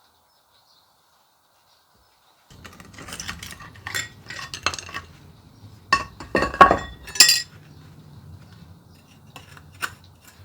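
Metal pieces clinking, scraping and clanking against each other after about two seconds of silence, with a cluster of the loudest clanks a little past the middle and a faint low hum underneath.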